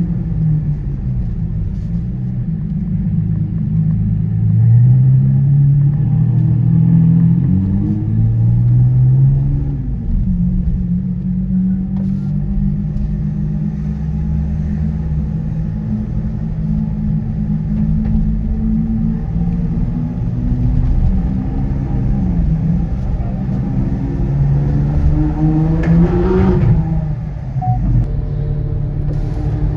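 Lamborghini Aventador SV Roadster's V12 running through a Balboni exhaust, a deep steady rumble that climbs in pitch a few times as the car accelerates. The sharpest rise comes near the end, then the pitch falls away.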